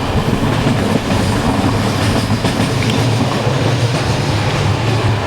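Old Bulgarian passenger train running on the rails: a steady, loud rumble and rattle of the wheels and carriage, coming in through an open compartment window.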